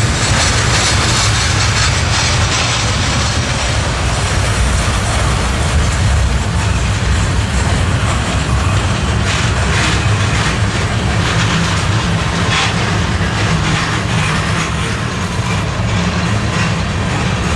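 Freight train rolling past, with a loud, steady rumble of wheels on rail and a few faint clicks from the railcars.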